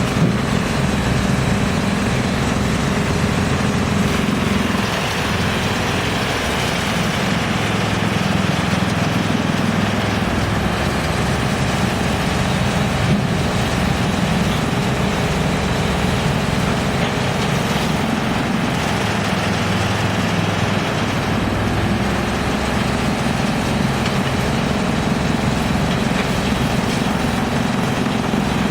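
Large drum wood chipper running steadily with a heavy machine hum and a low drone that eases off briefly twice.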